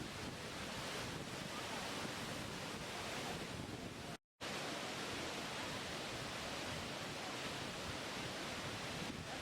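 Waterfall rushing steadily, an even wash of falling water. It cuts out to silence for a split second a little over four seconds in.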